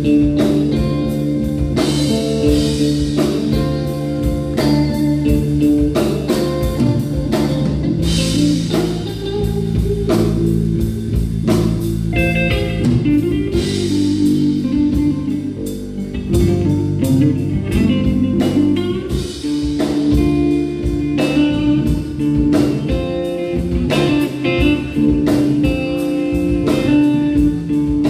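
Live band playing a blues-tinged instrumental passage with guitar and drum kit, no vocals.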